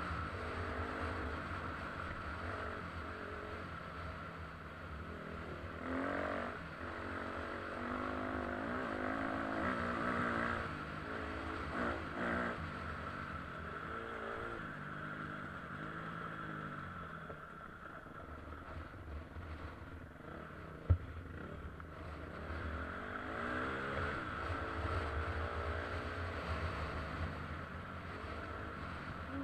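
KTM EXC 250 dirt bike engine revving up and down repeatedly as the bike is ridden off-road, the pitch climbing and dropping with the throttle. About two-thirds of the way through there is a single sharp knock, the loudest sound in the stretch.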